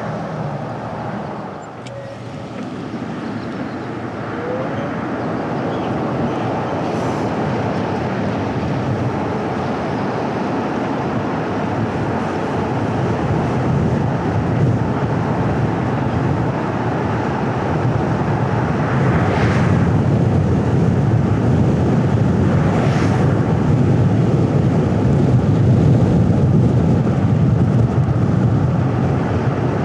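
A car driving, with steady road and engine noise that grows gradually louder through the second half. Two brief swells of higher hiss come about two-thirds of the way in.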